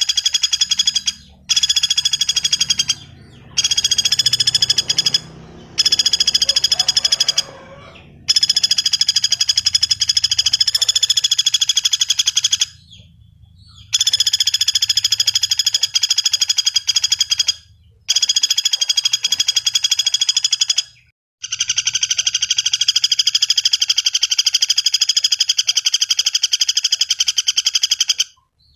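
Pelatuk bawang woodpecker calling: fast, rattling trills in repeated bouts, some short and some running for several seconds, broken by brief pauses.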